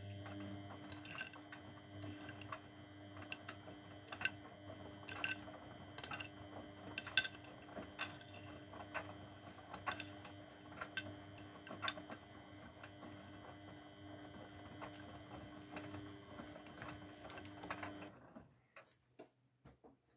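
Grundig washing machine's drum motor turning the drum during the wash, a steady hum with irregular clicks from the tumbling laundry. It stops about 18 seconds in.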